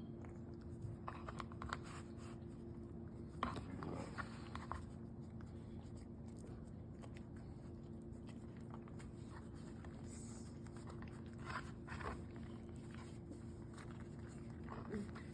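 Faint, scattered rustling and crinkling as a filled flatbread shawarma wrap is rolled up by hand, over a steady low hum.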